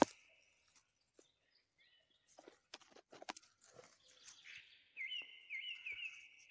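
A small bird calling, faint: a few scattered chirps, then a quick run of short repeated chirps, about three a second, near the end. A few soft rustles and clicks of grass and leaf litter come a little before the middle.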